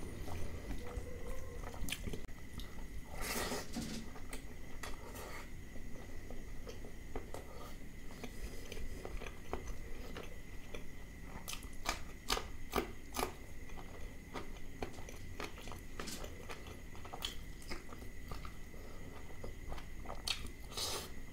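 Close-miked chewing and wet mouth smacks of a man eating rice and mutton liver curry, with soft squishing as his fingers mix the rice into the curry on the plate. Many small irregular clicks run through it, over a faint steady high whine and low hum.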